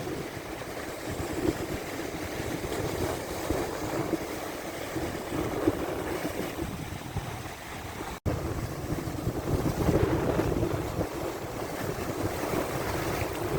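Strong wind buffeting the microphone over big waves breaking and washing on a lake shore, a steady rushing noise with gusty low rumble. It cuts out for an instant about eight seconds in.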